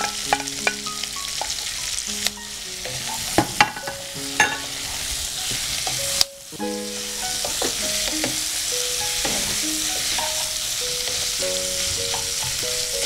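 Chicken pieces, capsicum and onion sizzling as they are stir-fried in a frying pan, with the scrapes and knocks of a wooden spatula on the pan now and then. The sound briefly drops away about six seconds in.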